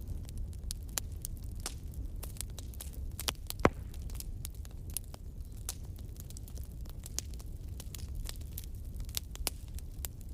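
Bonfire crackling: irregular sharp pops and snaps over a steady low rumble of flame, with one louder pop a little over a third of the way in.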